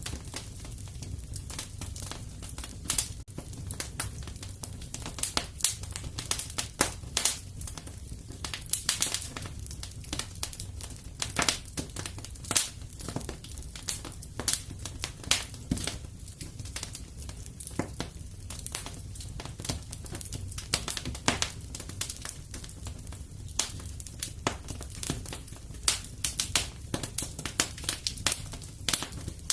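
Wood fire in a fireplace crackling, with irregular sharp pops and snaps several times a second over a low, steady rumble of the flames.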